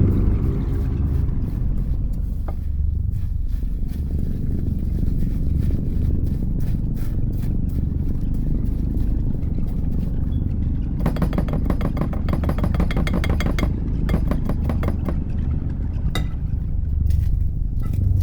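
Snow being stirred into a sweetened milk mixture in a bowl: a steady low rumble of mixing, with a run of fast clicking of the utensil against the bowl in the middle and a few single knocks.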